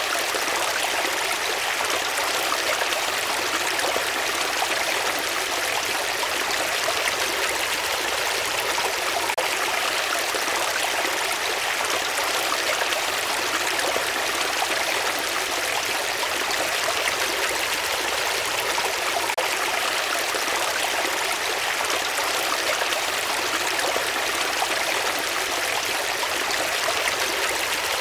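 Water flowing in a stream, a steady unbroken rush and trickle with little deep rumble.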